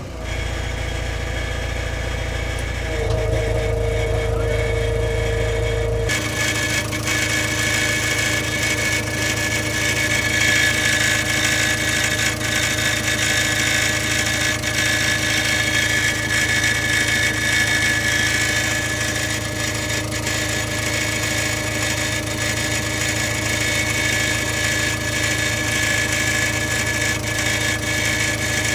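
JCB 3DX backhoe loader's diesel engine running steadily. About six seconds in, the sound changes abruptly: the deep rumble drops and a higher whine and hiss take over.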